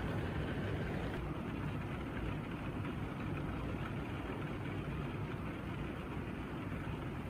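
Heavy rain falling steadily, heard from inside a room as a low, even rush with no separate drops standing out.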